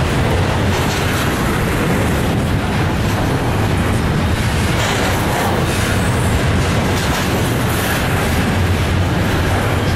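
Double-stack container well cars of a freight train rolling past, steel wheels on rail making a steady rumble.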